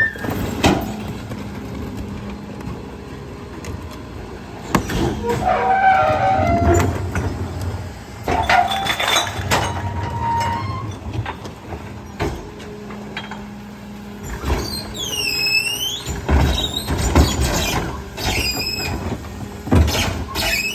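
Garbage truck's hydraulic packer compacting recycling: a steady low hum with repeated knocks, cracks and crunching as the load is crushed, and metal squeals. Near the end, high squeals dip in pitch and rise again several times.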